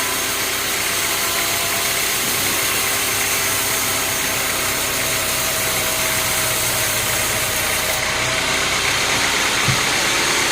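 Sawmill machinery's engine running steadily at idle under a constant broad noise, with one short knock near the end.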